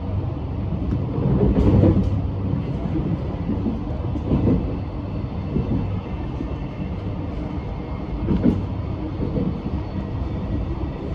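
X'Trapolis electric suburban train running at speed, heard from inside the carriage: a steady low rumble of wheels on rail. There are louder bumps about two, four and a half and eight and a half seconds in.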